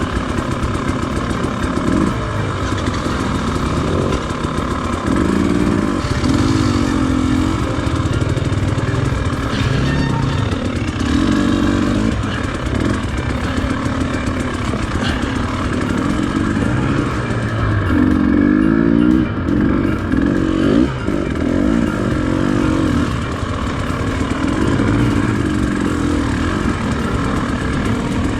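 Dirt bike engine revving up and down over and over as the bike is ridden along a rough off-road trail.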